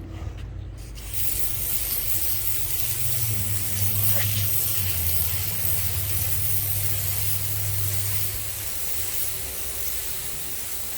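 Sawmill engine running under load while the blade cuts through an elm log. About a second in, a loud, steady hiss of sawing starts and keeps on over the engine's hum.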